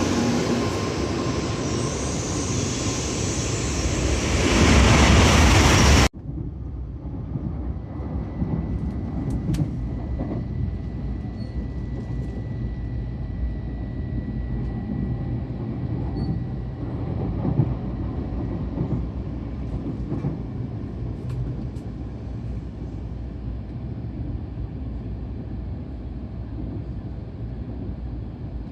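Japanese Shinkansen bullet train noise: a loud rushing that swells about four to six seconds in, then cuts off abruptly to a quieter, steady low rumble with a few faint clicks.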